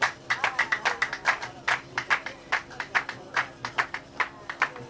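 Qraqeb, the Gnawa iron castanets, clacking in a fast, steady rhythm of about five strokes a second.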